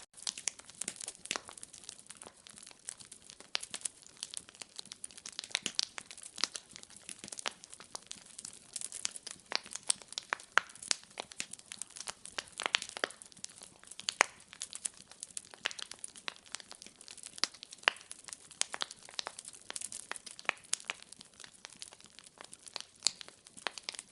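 Wood fire crackling in a fireplace: irregular sharp pops and snaps of varying loudness over a faint steady hiss, no rhythm.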